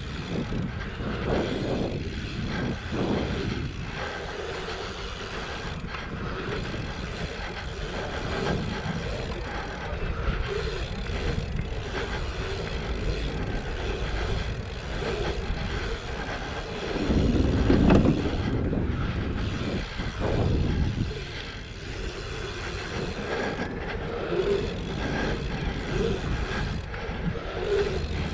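Wind buffeting a helmet-mounted action camera during a BMX ride, with rumbling tyre and bike noise underneath. The rush swells several times and is loudest about two-thirds of the way in.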